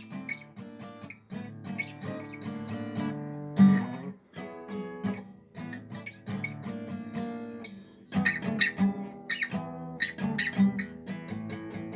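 Acoustic guitar strummed in an instrumental break of a rock-and-roll song, the strumming growing busier about two-thirds of the way through.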